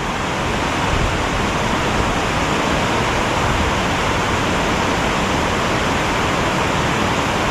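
Creek water rushing steadily, a constant even hiss.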